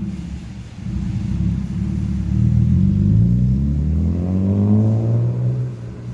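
Car engine accelerating: its pitch rises steadily for about three seconds, then settles into an even run.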